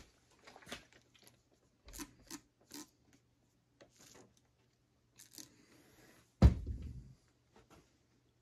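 Small workbench handling noises: scattered light clicks and taps, with one louder knock about six and a half seconds in, over a faint steady low hum.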